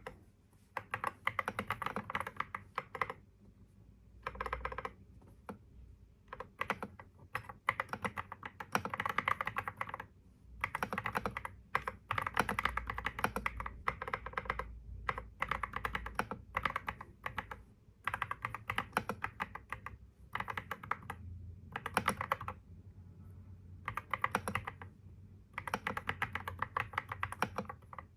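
Typing on a computer keyboard: quick runs of keystrokes in bursts of a second or two, broken by short pauses.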